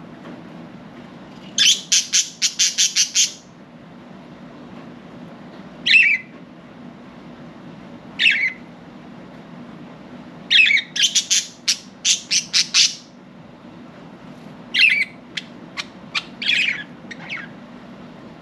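Budgerigars squawking and chirping in short rapid strings of sharp calls, with a few single falling calls between them, over a steady low hum.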